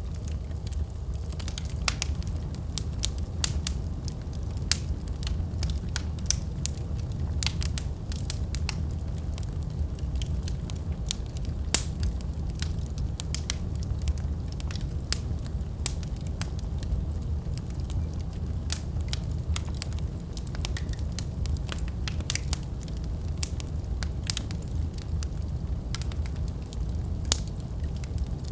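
Fire burning in a fireplace: a steady low rumble of flames with frequent irregular crackles and pops, one sharper pop near the middle.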